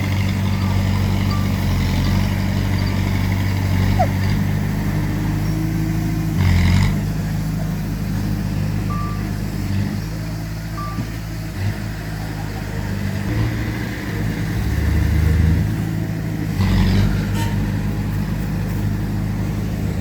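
Heavy diesel earthmoving machinery, bulldozer and dump trucks, running steadily. There are two brief louder surges, about six and seventeen seconds in, and a couple of short high beeps around the middle.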